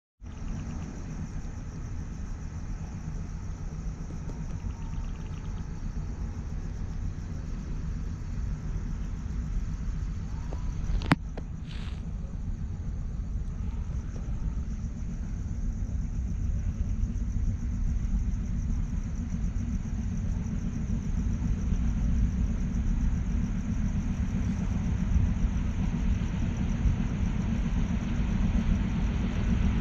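Low, steady rumble of an express train approaching along the track, growing slowly louder. A single sharp click about eleven seconds in.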